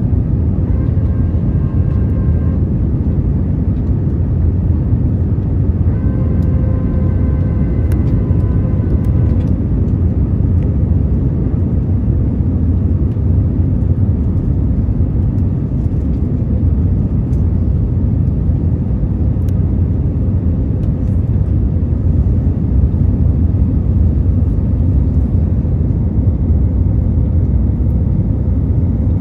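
Steady low roar of engine and airflow noise inside an Airbus A321's passenger cabin. Faint high held tones sound twice in the first ten seconds.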